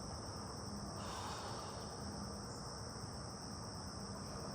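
A steady chorus of insects outdoors, a continuous high-pitched trill that holds unbroken throughout.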